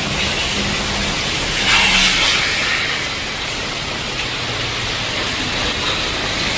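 Heavy rain pouring steadily, as a continuous hiss, with a brief louder surge about two seconds in. A low engine-like hum fades out within the first second.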